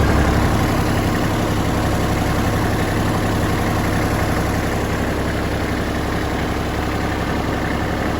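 Tractor engine idling steadily, run after a radiator leak-sealer treatment to check that coolant no longer leaks.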